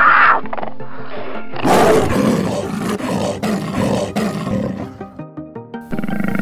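Leopard growling and roaring in short edited clips that change abruptly, over background music.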